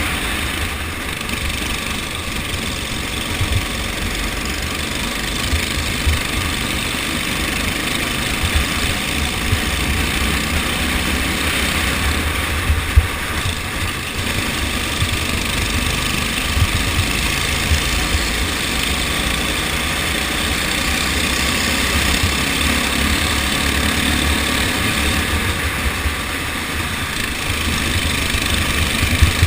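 Go-kart engine running steadily during a race, over an uneven low rumble with a few sharp knocks.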